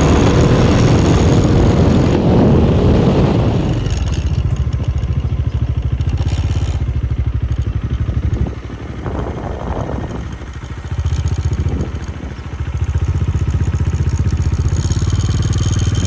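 Motorcycle engine running while riding, with a loud rushing noise over it in the first few seconds. The engine eases off and picks up again a couple of times around the middle.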